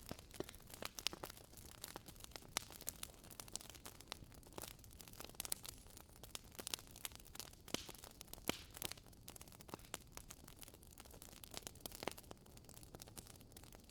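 Wood fire crackling in a fireplace: a steady low hiss with many irregular sharp pops and snaps, some louder than others.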